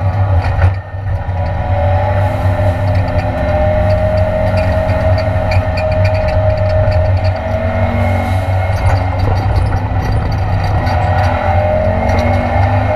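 Race-prepared Ford Escort Mk2 Cosworth engine heard from inside the stripped cabin, running hard under load on track, its pitch rising and falling with the throttle. About a second in the level dips briefly with a couple of sharp clicks, as at a gear change.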